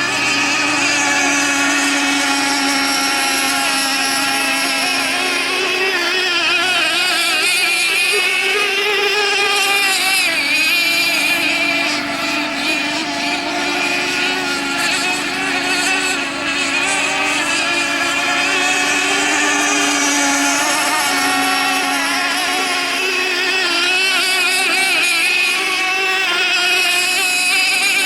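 Radio-controlled model racing boats running on the water: several high-pitched motors whose pitch wavers up and down throughout.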